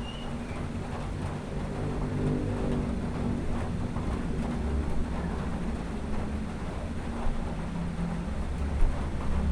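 Low rumble of a motor vehicle engine, swelling and fading as traffic goes by.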